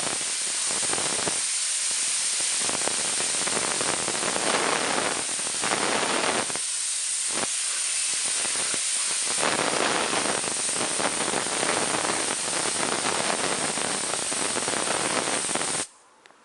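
Compressed-air blow gun blasting at full pressure: a loud, steady hiss, with a lower rushing part that comes and goes, cutting off suddenly near the end.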